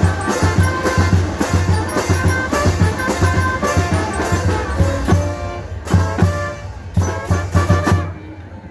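Live band music: a steady, heavy drum beat under sustained melody instruments. The playing breaks up and stops near the end.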